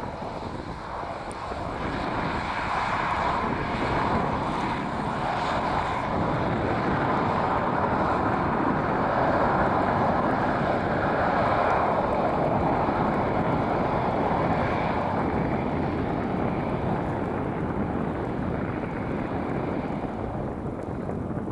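Jet roar of a landing Airbus A320-200, swelling to its loudest partway through and then slowly fading, with gusty wind rumbling on the microphone.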